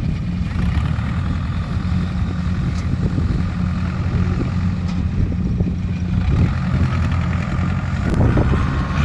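Engine of rice-harvesting farm machinery running steadily at a constant low hum. Wind buffets the microphone near the end.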